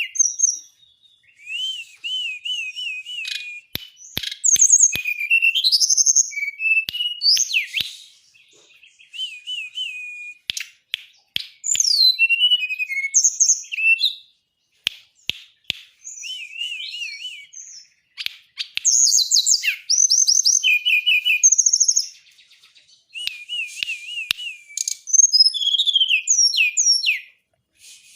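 A songbird singing its full song in a rapid, varied string of whistled notes, repeated trills and quick rising and falling sweeps, broken by short pauses. A few sharp clicks come in about four to five seconds in and again around fifteen seconds.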